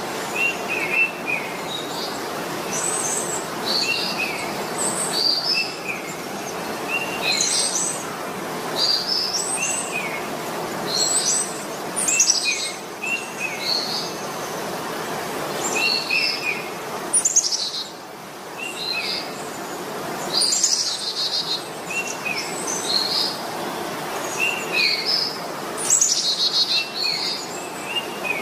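Birds chirping and singing: short high notes and quick note groups repeating every second or two, over a steady background hiss.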